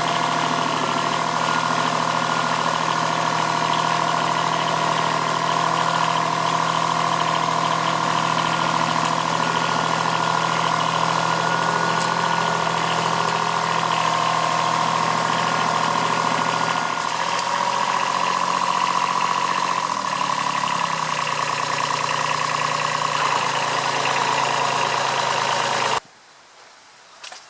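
Kubota B7001 compact tractor's D850 three-cylinder diesel running steadily while pulling on a steel cable to tear out a grape vine stump. Its note drops slightly about two-thirds of the way through as it takes the strain. The sound cuts off abruptly near the end.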